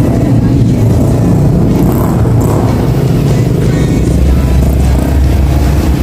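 Motorcycle engine running steadily while riding, with music playing over it.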